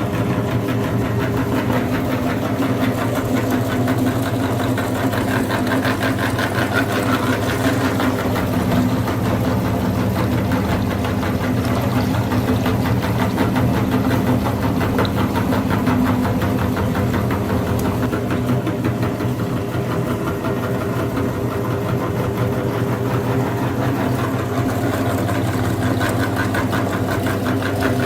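Mini tractor engine running steadily with an even, rapid knocking beat.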